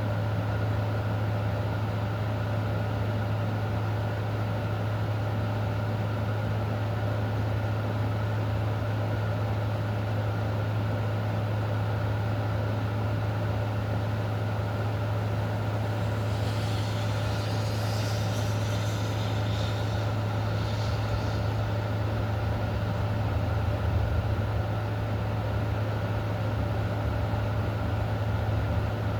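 Steady low mechanical hum with a constant hiss over it; a brief higher, busier sound comes in for a few seconds a little past the middle.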